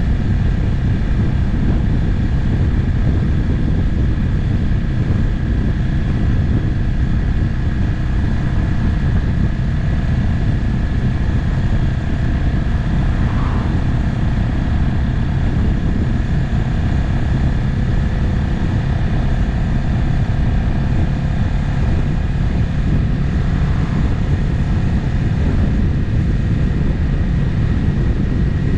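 Motorcycle cruising at a steady speed: the engine runs with a steady drone under a heavy low rush of riding wind.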